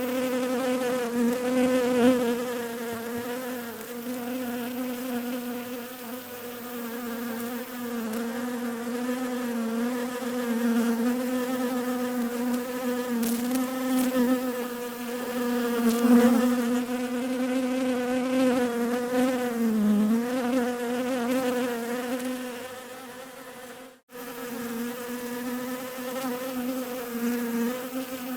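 Bees buzzing in a continuous, wavering drone with a steady pitch that dips briefly, cutting out for a moment about three-quarters of the way through.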